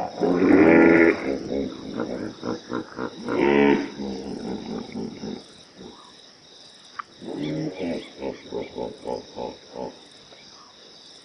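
A lion roaring in deep, loud calls near the start and again about three and a half seconds in, then a long run of short grunts, about three a second, in the second half. Insects trill steadily underneath.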